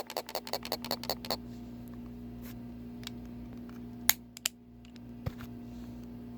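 Clicks from a Tesla Punk 85W vape box mod being handled: a quick run of about six clicks a second for the first second and a half, then a few single clicks, the sharpest about four seconds in, over a steady low hum. The mod will not turn on, put down to a loose battery.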